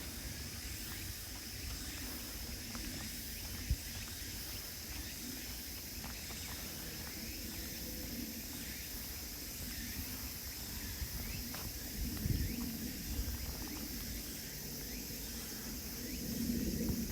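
Steady chorus of insects singing in high, even bands, over a low rumble with a few soft thumps.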